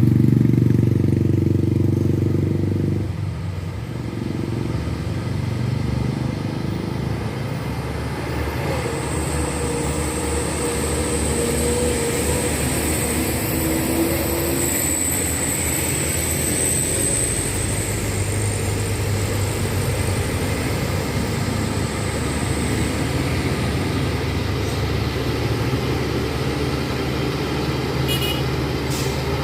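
Truck engines running on an uphill road, with a loud engine passing close in the first few seconds, then steady engine noise. A thin, high, steady whine sounds through the middle.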